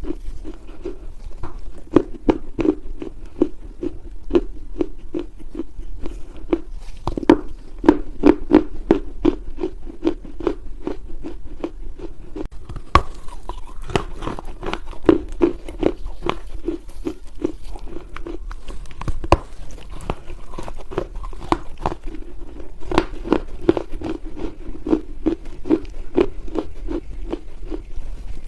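Lumps of dry Chinese loess clay being bitten and chewed: soft crunches with many sharp crackles over a steady chewing rhythm.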